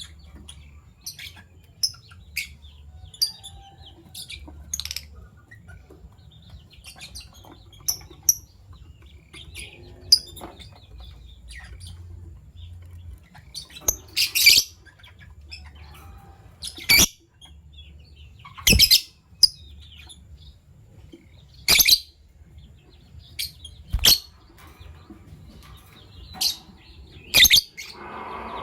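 Fischer's lovebirds chirping: short, shrill, high calls at irregular intervals, with several much louder sharp calls in the second half.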